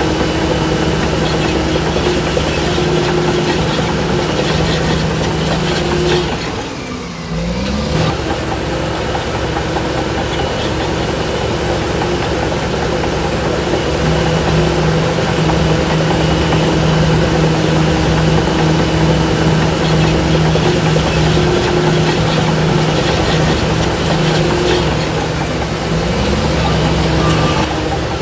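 Heavy diesel engine of earthmoving machinery running steadily. About seven seconds in, the engine note dips briefly and then rises again.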